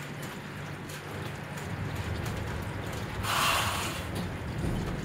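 Steady rainfall, with a brief louder rush of noise about three seconds in.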